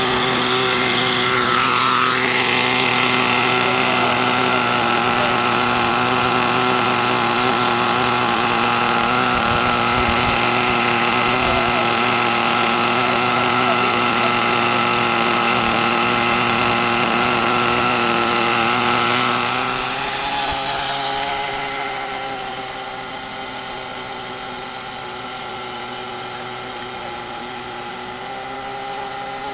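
Small single-cylinder engine running steadily at an even, high pitch, then turning quieter about two-thirds of the way through.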